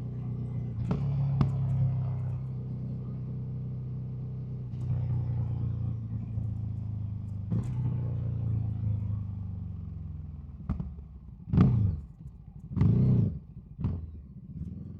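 Ducati SuperSport S L-twin engine running through a Termignoni aftermarket exhaust while riding at a steady pace, its note sinking gradually as the bike slows. Near the end come a few short, loud bursts of engine sound before it fades away.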